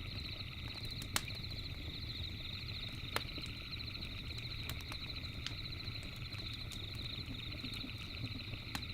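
Campfire crackling with scattered sharp pops, the loudest about a second in and again about three seconds in, over a low steady rumble and a steady high-pitched chirring in the background.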